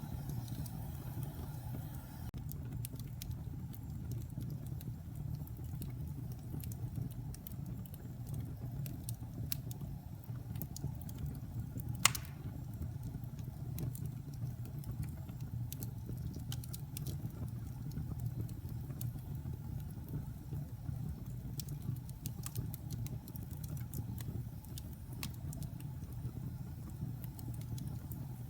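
Wood fire in a fireplace crackling: scattered small pops and snaps over a steady low rumble of burning, with one sharp, much louder pop near the middle.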